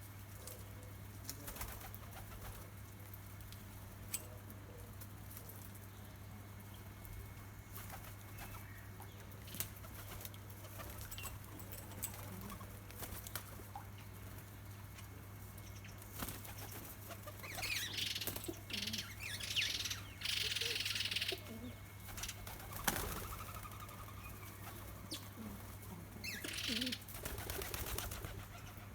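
Small birds fluttering their wings at a garden seed feeder in several short bursts, the longest about two-thirds of the way through and another near the end, among scattered small clicks. A steady low hum runs underneath.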